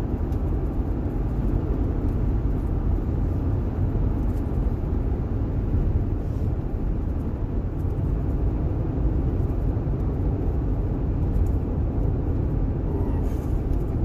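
Steady low rumble of a car heard from inside the cabin, with even engine and road noise throughout.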